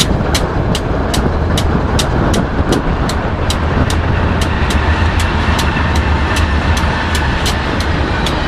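BNSF double-stack intermodal freight train passing at high speed: a loud, steady rumble with a low hum and sharp clicks repeating about four times a second.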